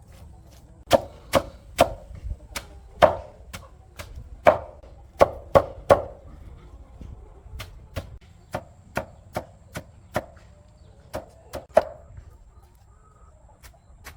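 A run of sharp strikes, about two a second and uneven, heaviest in the first six seconds and again around eleven to twelve seconds, then tapering off.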